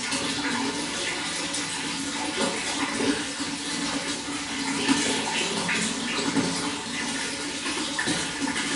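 Running water flowing steadily, with many small splashes and gurgles.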